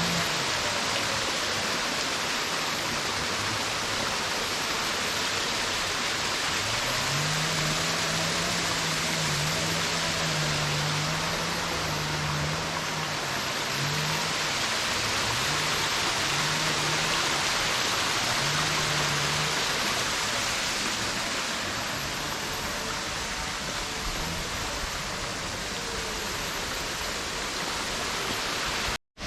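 Running water, a steady even rush like a small garden waterfall or stream, with a faint low tone that comes and goes in the middle. The sound cuts off abruptly near the end.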